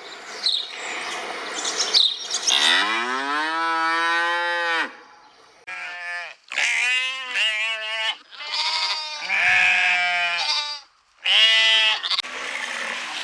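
Farm animals calling: a series of separate moos or bleats. The first long call rises and then holds, beginning a few seconds in, and shorter wavering calls follow, with sudden breaks between them.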